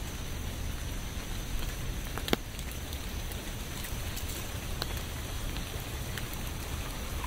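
Steady rain falling, with a few sharp, louder drop strikes standing out, the loudest about two seconds in.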